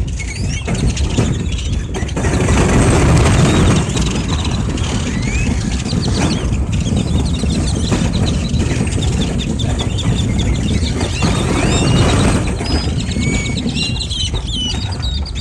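A large flock of birds calling together, many overlapping short chirps and rising whistles, over a steady low rumble.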